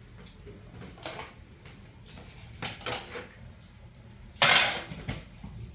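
Dishes and cutlery clattering: several sharp clinks and knocks, then a louder, longer clatter about four and a half seconds in.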